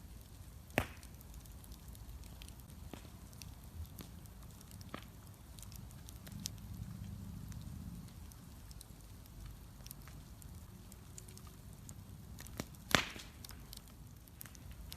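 Wood bonfire crackling: scattered faint snaps and ticks over a low rumble, with two sharp loud pops, one about a second in and one near the end.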